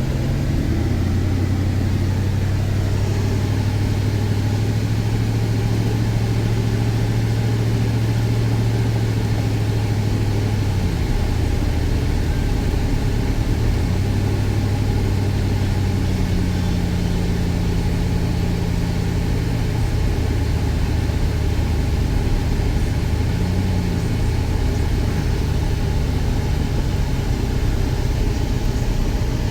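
Car engine and road noise heard from inside the cab while driving; the steady engine hum changes pitch a few times.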